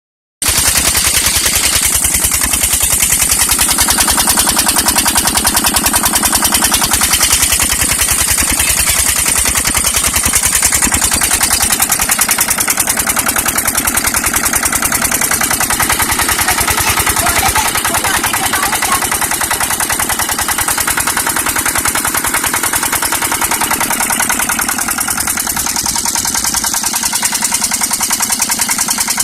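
Kirloskar 10 hp single-cylinder diesel engine running steadily, with a rapid, even train of exhaust beats.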